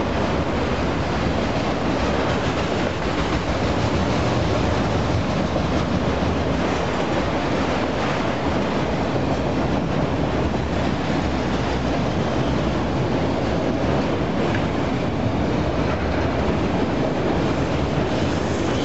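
Freight train's enclosed autorack cars rolling past, with a steady, unbroken noise of steel wheels running on the rails.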